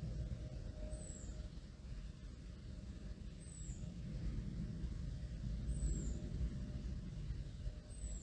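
Low, steady rumble of a distant aircraft, with a small bird repeating a short, high chirp that falls in pitch about every two and a half seconds.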